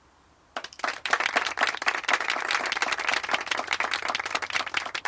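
Applause: many hands clapping, starting abruptly about half a second in and thinning out to a few scattered claps near the end.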